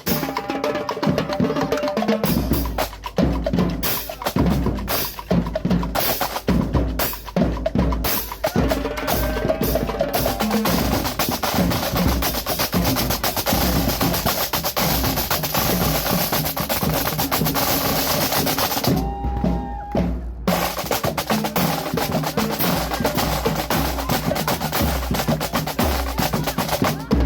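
Loud, percussion-heavy music, mostly drumming with deep bass drum strokes and snare-like hits, with a brief break about nineteen seconds in.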